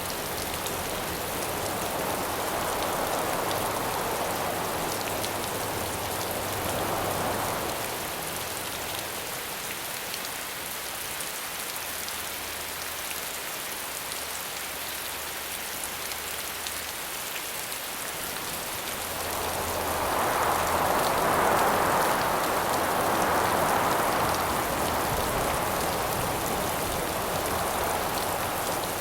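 Steady rain falling, with wind howling over it. The wind rises and falls in broad swells: one through the first few seconds, and a louder one from about two-thirds of the way in.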